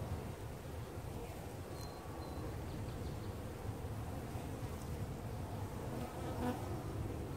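Dense, steady buzzing of a large swarm of honeybees flying around an opened hive.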